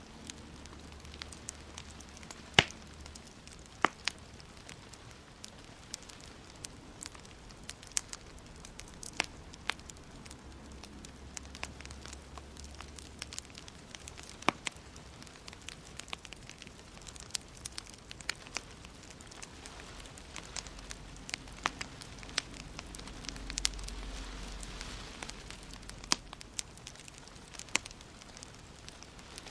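Wood fire in a fireplace crackling, with frequent sharp pops over a steady hiss; the loudest pop comes about two and a half seconds in.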